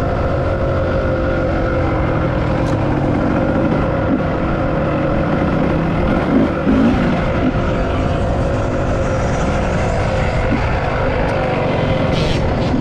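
Dirt bike engine running at a fairly steady pitch while riding, with only slight changes in throttle.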